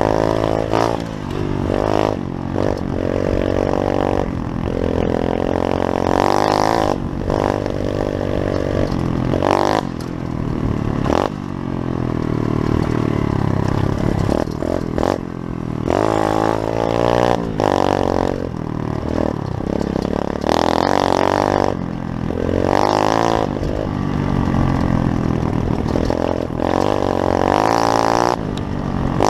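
Pit bike engine running hard while being ridden, revving up and down, its pitch repeatedly rising and dropping.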